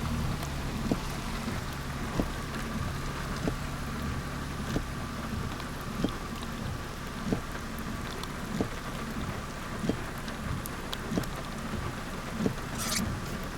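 Steady rain-like noise over a low vehicle hum, with a short click repeating evenly about every 1.3 seconds and a brief hiss near the end.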